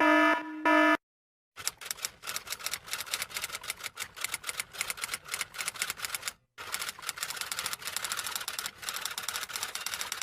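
A pitched electronic beep, repeating in short pulses, ends about a second in. Then fast typing on keys follows: a rapid, uneven run of sharp clicks with a brief pause near the middle.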